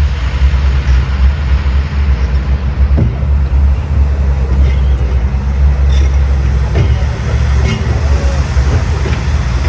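Heavy diesel engine running steadily with a deep, even rumble, with a few faint knocks over it.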